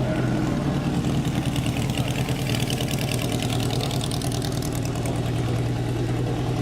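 Antique race car engine idling steadily with a low, even hum, a rapid regular pulsing growing louder in the middle before easing off.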